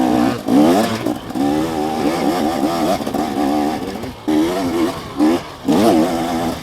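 KTM 250SX two-stroke dirt bike engine revving up and down on and off the throttle, its pitch wavering constantly, with a few brief drops where the throttle is closed.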